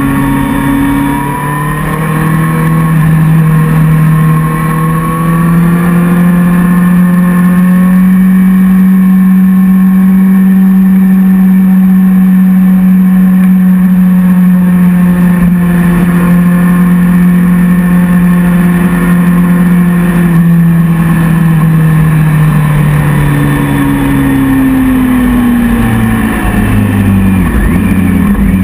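Motorcycle engine running hard at road speed, its pitch rising over the first several seconds as the bike speeds up, holding steady, then falling away from about twenty seconds in as it slows. Wind rushes over the handlebar-mounted microphone throughout.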